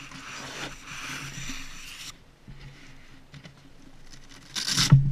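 Handling noise from a tactical vest being worked with: fabric rustling and scraping for about two seconds, then faint rustles, and a short loud rustle or bump near the end.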